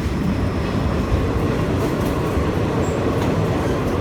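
Passenger train running along the track, heard from inside an open-air carriage: a steady low rumble of the wheels and carriage.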